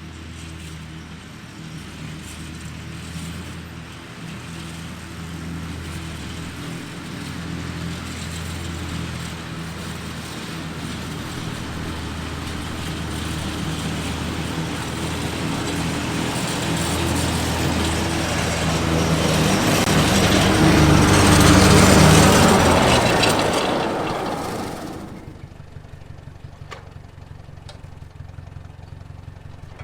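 Ford Jubilee tractor's four-cylinder engine running steadily while driving a finishing mower through grass. It grows louder to a peak a little past two-thirds of the way through, then drops away sharply to a quieter steady run.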